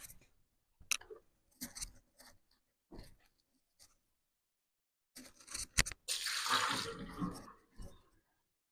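A few light kitchen knocks and clicks, then about a second of hot water being poured, around two-thirds of the way through.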